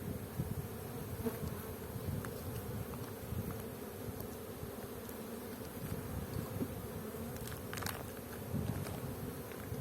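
Honeybees humming steadily around an open hive, with a brief sharp click about eight seconds in.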